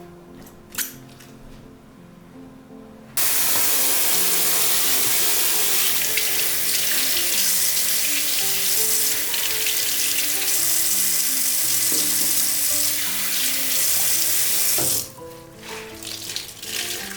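Kitchen tap running into a sink as a steady rush of water, turned on suddenly a few seconds in and shut off about twelve seconds later.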